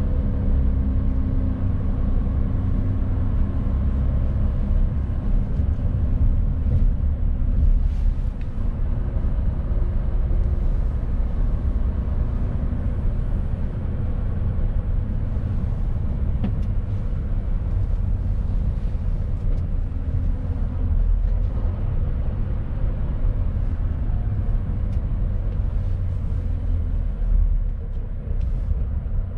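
Mercedes-Benz Actros diesel truck driving under a 19-ton load: a steady low engine drone with road rumble, and a few faint clicks.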